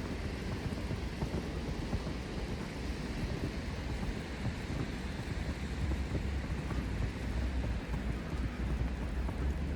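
Wind buffeting the microphone as a steady low rumble over an even hiss of outdoor city ambience, the rumble growing stronger in the second half.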